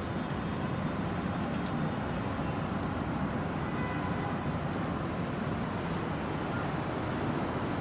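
Steady low rumbling background noise, with a couple of faint clicks.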